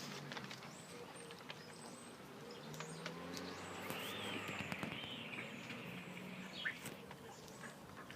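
Quiet outdoor ambience with birds calling: a few chirps and an arching call about four seconds in, over a faint steady background and scattered light clicks.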